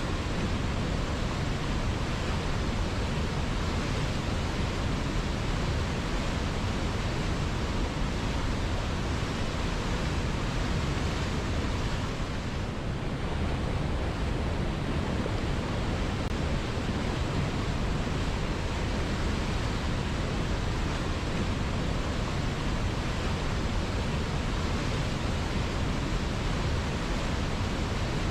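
A river flowing: a steady, even rush of moving water, heaviest in the low end.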